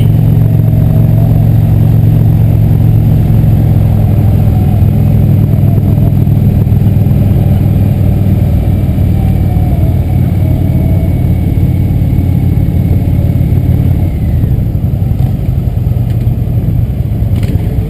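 Motorcycle engines running, a steady low drone that eases off about fourteen seconds in.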